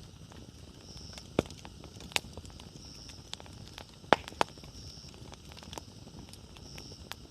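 Campfire of burning firewood crackling, with scattered small ticks and four sharper pops, the loudest about four seconds in. A faint high-pitched chirp repeats about every two seconds behind it.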